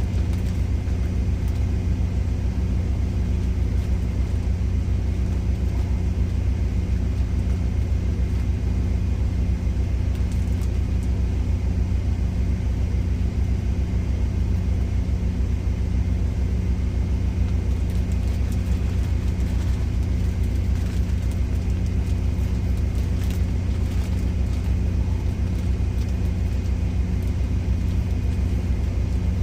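Semi truck's diesel engine idling, a steady low drone heard from inside the cab.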